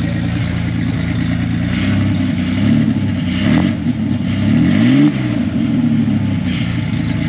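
1993 Ford Ranger engine running through a straight-piped exhaust with the muffler removed: idling, then revved twice a couple of seconds in, the pitch rising and falling back to idle each time.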